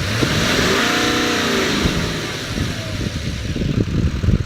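2012 Chevrolet 3500's engine revved once: the pitch rises for about a second, peaks, and falls back over the next second or so, then it settles to an uneven idle.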